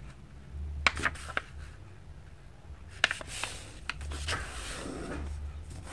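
A sheet of paper being folded in half and creased by hand: scattered short rustles and sharp clicks of the paper, clustered about a second in and again around three to four seconds in.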